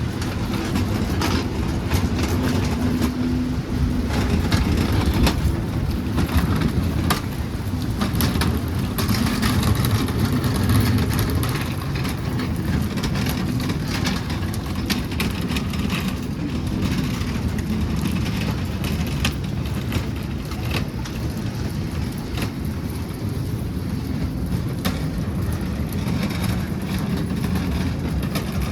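City street traffic: vehicle engines running and passing in a steady low rumble, with frequent short clicks and knocks over it.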